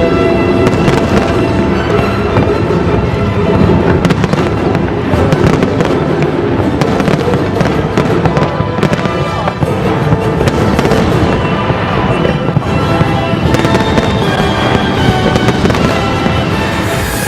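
A continuous barrage of fireworks bursting and crackling, with Chinese orchestral music playing over loudspeakers underneath.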